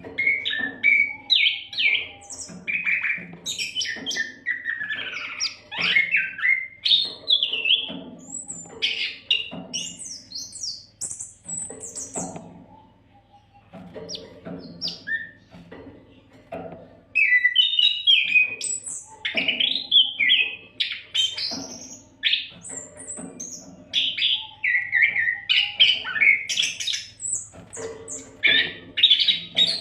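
Oriental magpie-robin (kacer) singing loud, varied, rapidly changing phrases, with a short lull about halfway through. A faint steady low hum runs underneath.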